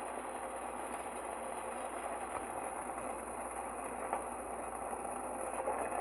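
Pot of tea water, with tea powder and ground spices, bubbling steadily at a rolling boil.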